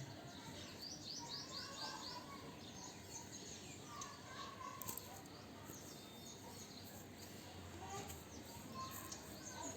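Birds chirping faintly in the background, with a quick run of about six short chirps about a second in and scattered single chirps after.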